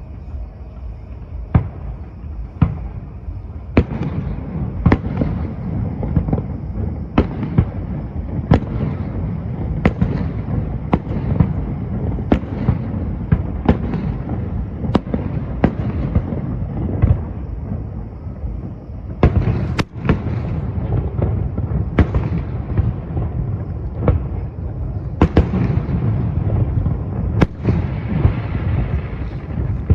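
Aerial fireworks bursting: a run of sharp bangs, one or two a second, over a continuous low rumble of exploding shells. The bangs start sparse and grow thicker after a few seconds.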